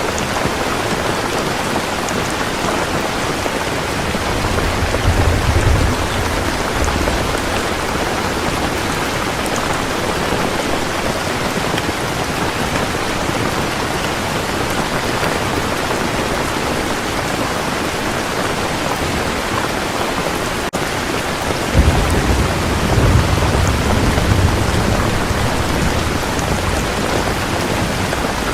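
Heavy rain falling steadily, with two low rumbles of thunder: a short one about five seconds in and a stronger one that starts suddenly a little past twenty seconds and rolls for several seconds.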